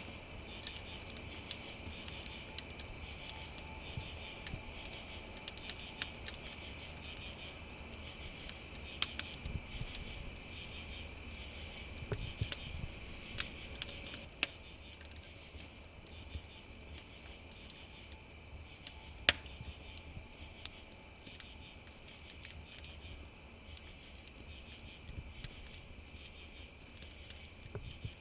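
A chorus of crickets chirping steadily, with a wood campfire crackling and popping in scattered sharp snaps; one louder pop about two-thirds of the way through.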